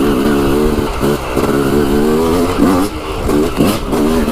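Yamaha YZ dirt bike engine revving up and down under varying throttle, its pitch rising and falling several times with brief drops in between.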